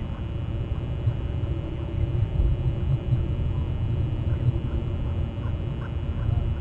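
Low, gusty rumble of wind on the microphone, with faint bird calls in the background later on.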